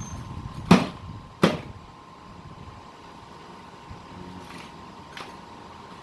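Two sharp knocks about 0.7 s apart, the second a little quieter, then a couple of faint clicks.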